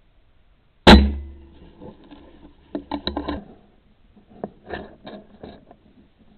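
Air rifle shot: one sharp, loud crack about a second in, followed a couple of seconds later by two short runs of clicks and clatter.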